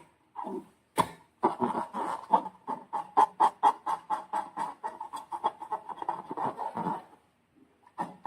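Slime being squished and worked by hand, giving a quick run of short wet clicking squelches, several a second. A sharp click comes about a second in, and the squelching stops about a second before the end.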